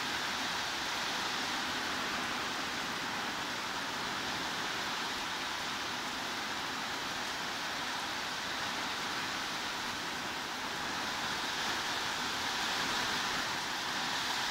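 Heavy rain falling steadily: an even, unbroken hiss with no single drops or other sounds standing out.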